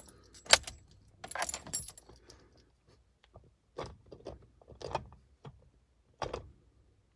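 Manual gear shifter of a 1993 Ford Ranger being moved through the gears, a series of separate clicks and clunks as it goes into each position, the sharpest about half a second in, with a jingle around a second and a half in.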